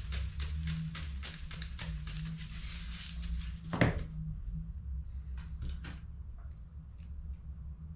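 Hand work on an HP CE285A laser toner cartridge: rubbing or scraping strokes about three a second, then one sharp plastic click a little under four seconds in, then a few lighter clicks, over a steady low hum.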